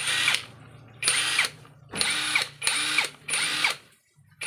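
Cordless electric impact wrench run in short trigger pulls, about five bursts of roughly half a second each, its motor whine falling away as it spins down after each release.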